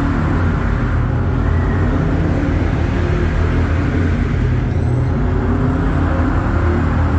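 1948 Ford F5 bus engine running steadily under way, with road noise.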